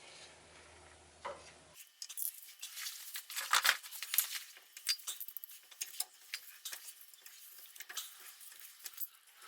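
Quick, light metallic clicking and scraping of hand tools and small steel suspension parts being handled, loudest a little past the middle.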